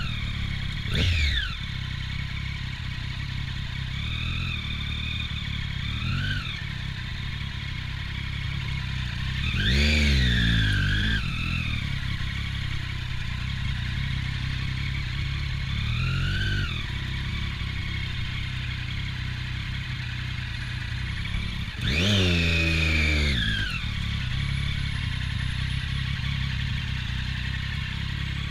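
Triumph Daytona 675's inline three-cylinder engine, fitted with an Arrow aftermarket exhaust, running at low revs while crawling in traffic. Several short throttle openings make the revs rise and fall again, the strongest about ten and twenty-two seconds in.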